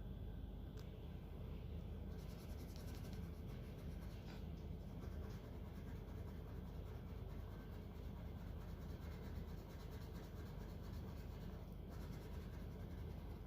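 Wax crayon rubbed back and forth on paper in quick, faint scratchy strokes, colouring in a large area, over a steady low hum.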